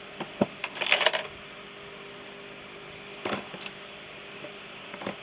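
A few short clicks and rattles of tools and small parts being handled in a small toolbox: a cluster about a second in and another near three seconds.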